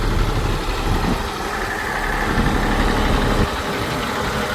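Diesel engine of heavy farm or construction machinery running steadily.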